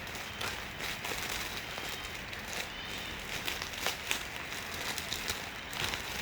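Plastic packaging crinkling and rustling as a parcel is handled and opened, with many small irregular crackles.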